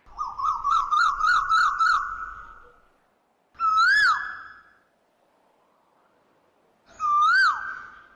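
A bird calling three times: first a warbling trill that wavers quickly up and down for about two seconds, then twice a single whistled note that rises, swoops back down and holds.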